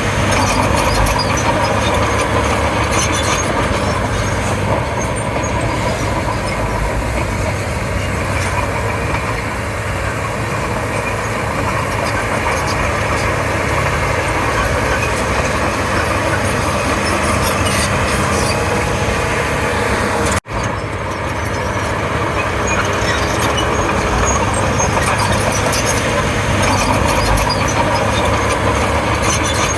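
Komatsu D31P crawler bulldozer working: its diesel engine runs steadily under load with a constant mechanical clatter, cutting out for an instant about two-thirds of the way through.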